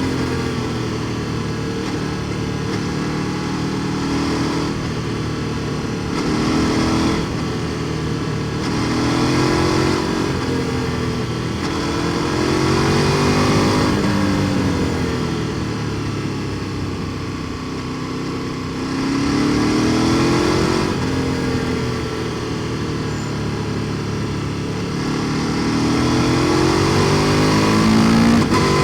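KTM 1290 Super Duke R Evo's V-twin engine through an Akrapovic exhaust, heard on the move: the engine note climbs in pitch and drops back several times as the bike accelerates and eases off.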